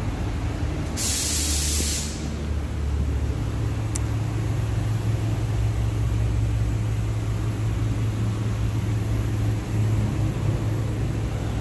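2013 Dodge Durango engine idling with a steady low hum. About a second in, a loud burst of hissing lasts about a second, and there is a faint click a few seconds later.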